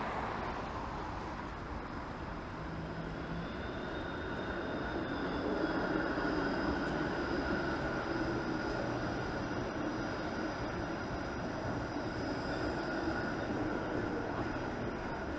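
Traffic on a wet city street, a steady hiss with a high electric whine over it that swells about six seconds in.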